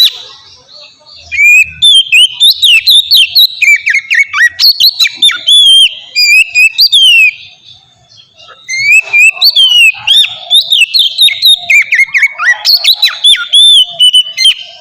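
Oriental magpie-robin (kacer) singing full-voiced: a loud, fast run of varied whistled notes, slurs and trills, in two long phrases with a pause of about a second and a half between them.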